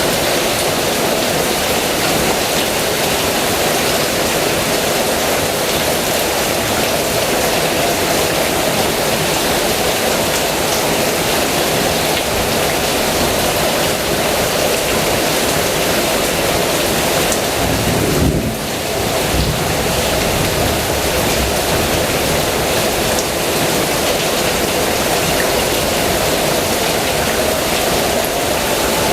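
Heavy rain pouring steadily, with a low roll of thunder rumbling about 18 seconds in.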